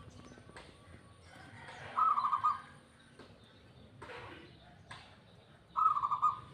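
Zebra dove (perkutut) of a local strain cooing. Two short, rapid, stuttering coos about four seconds apart.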